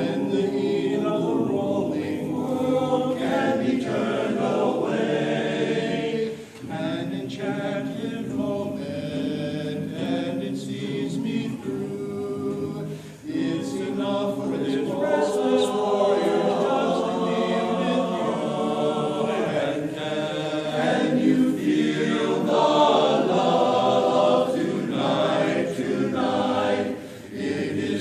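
A group of voices singing a slow sad love song together like a choir, with short breaks between phrases.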